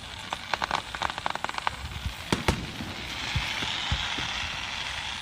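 Aerial fireworks bursting: a rapid run of crackles in the first second and a half, two sharp bangs about halfway, then a sustained hissing crackle, over low thumps.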